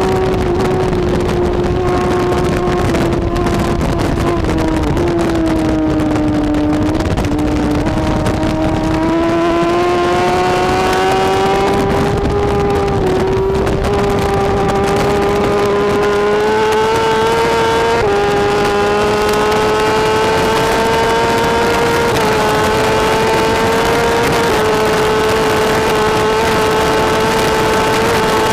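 BMW S1000RR superbike's inline-four engine running hard at high revs. Its note sinks over the first several seconds, then climbs steadily for the rest, with small jumps in pitch at each gear change.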